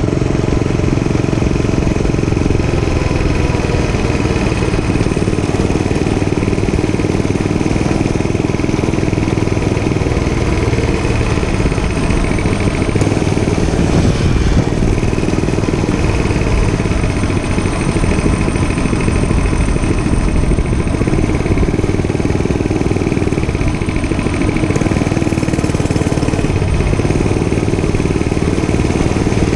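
Gas dirt bike engine running steadily during a ride, with no sharp changes in revs.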